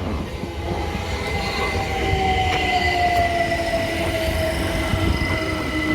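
Class 387 electric multiple unit running past, a low rumble with a steady high tone and a motor whine that slides slowly down in pitch.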